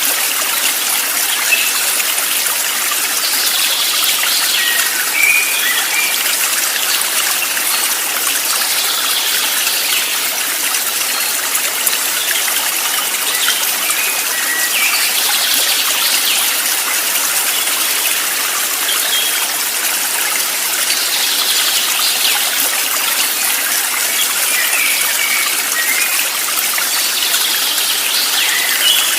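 Steady rushing of running water, like a flowing stream. Faint short high chirps recur about every six seconds.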